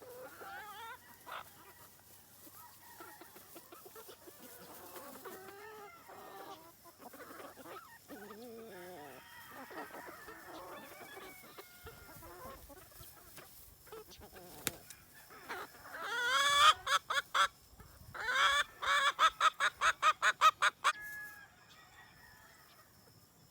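Flock of free-range chickens clucking softly, then one bird gives a loud rising call and a rapid string of loud squawks about two-thirds of the way through.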